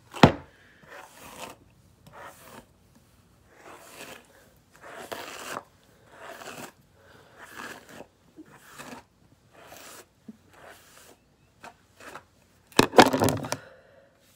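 Rustling and scraping handling noises in short bursts about a second apart, with a sharp knock just after the start and a louder burst of rustling near the end.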